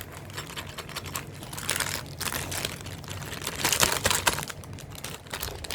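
Packaging crinkling and crackling as it is handled and opened, in irregular bursts, loudest about two seconds in and again near four seconds in.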